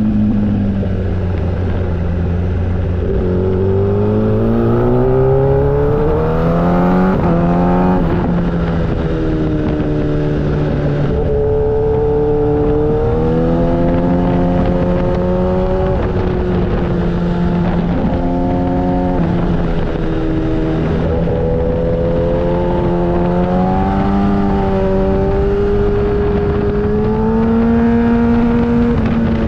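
Motorcycle engine under way, its pitch climbing as it accelerates and dropping sharply at each gear change, several times in a row. Later the pitch holds fairly steady.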